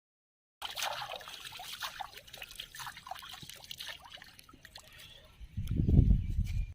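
Water trickling and splashing, loudest at the start and fading over a few seconds, followed near the end by a brief, loud low rumble that cuts off abruptly.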